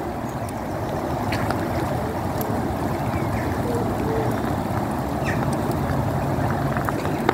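Steady rushing outdoor noise of wind and rain, with scattered faint ticks.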